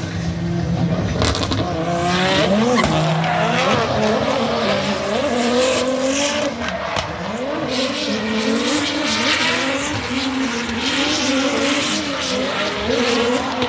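Car engine revving hard, its pitch rising and falling again and again, with tyres squealing and skidding as in drifting on track.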